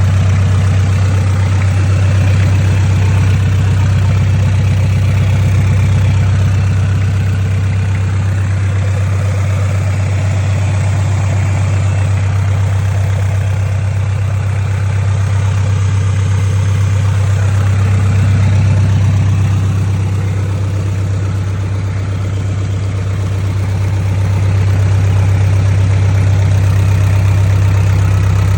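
Nissan QD32 3.2-litre four-cylinder diesel engine idling steadily just after a start-up, with a strong low hum. It runs slightly quieter for a few seconds about twenty seconds in.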